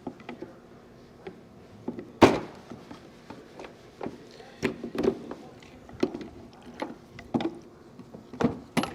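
Irregular knocks, clicks and clatters of hand tools and metal engine parts being handled during fuel injector work, the loudest a sharp knock about two seconds in.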